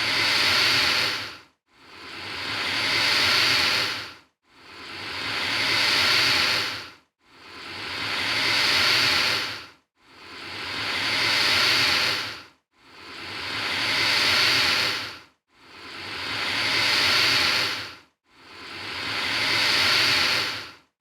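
Alligator hissing: a long breathy hiss repeated evenly about every three seconds, each one swelling up and then cutting off sharply before the next.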